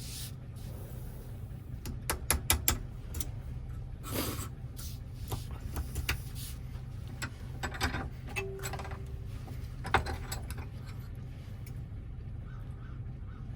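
Small metal clicks and taps of a key and lock parts being handled while a Toyota door lock is reworked, including a quick run of clicks about two seconds in, over a steady low hum.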